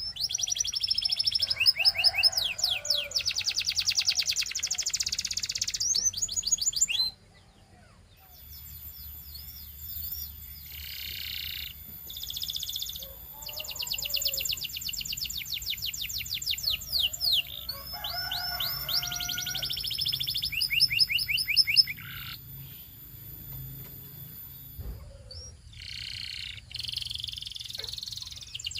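Belgian canary singing: long phrases of rapid trills and rolls, with a short break about seven seconds in before the song resumes.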